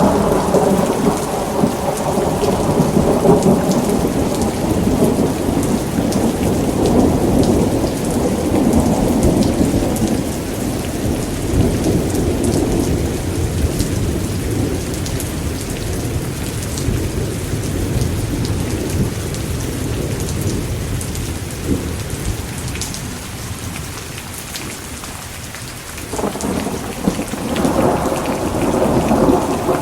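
Steady heavy rain with rolling thunder. A long rumble of thunder dies away through the middle, and a new roll builds near the end.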